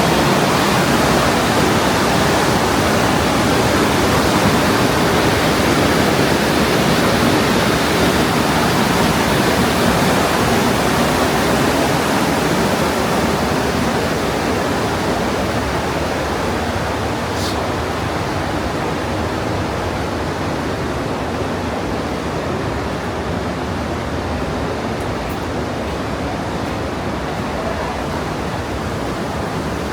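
Partnach River, a glacial-meltwater mountain stream, rushing loudly through the limestone gorge in a steady, even roar that eases off a little over the second half.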